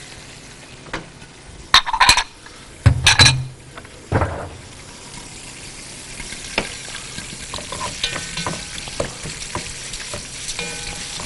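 Vermicelli and chopped onion frying in hot fat in a pot, sizzling steadily while being stirred with a spoon. Two louder clatters come about two and three seconds in, with lighter scrapes and ticks of the spoon after.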